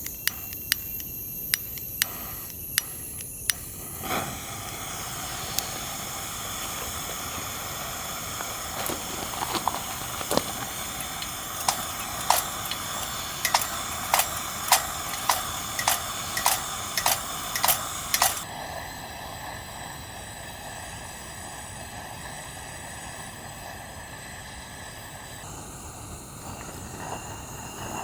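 Wood fire crackling with sharp pops over a steady hiss. The pops come in two clusters, one near the start and another through the middle, and the steady background shifts at about two-thirds of the way through.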